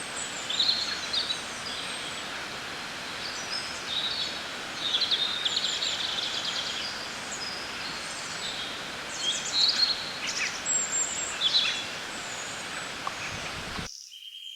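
Several birds chirping and trilling over a steady outdoor hiss of nature-sounds ambience. Just before the end the hiss cuts off abruptly and a steady high note begins.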